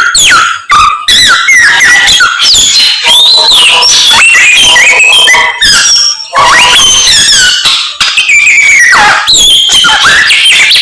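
Samyong songbird singing loudly: a fast, continuous run of varied whistled phrases with sliding, rising and falling notes, broken only by a few short pauses.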